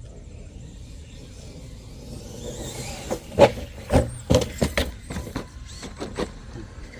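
Arrma Quake 2WD brushless RC truck being driven, with a steady rush of noise, then a quick series of sharp knocks and clatters from about three to six seconds in.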